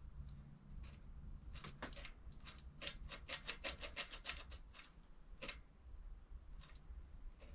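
Light clicks and taps of small metal parts being handled, with a quick run of about a dozen clicks in the middle, over a faint low hum.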